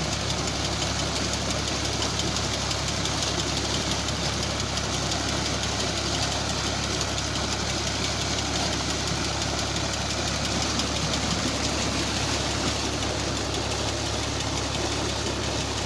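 New Holland Ghazi tractor's diesel engine running steadily, driving a tubewell pump through a shaft.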